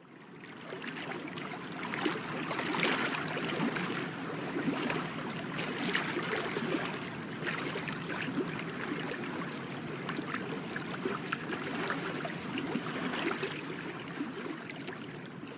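Small waves lapping and trickling against the hull of a boat on a reservoir, a steady wash of water with many small splashy ticks.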